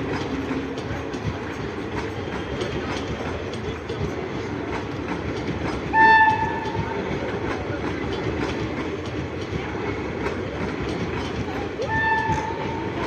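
Indian Railways train running with a steady rumble and wheel clatter, its horn giving two short blasts, one about halfway through and one near the end, the first louder.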